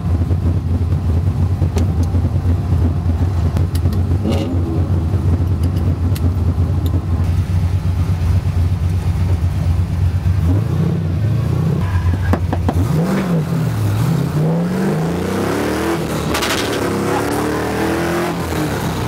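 Drift car's engine holding a steady drone for about ten seconds, then revving up and down again and again, its pitch climbing, as the car is driven hard in a drift run.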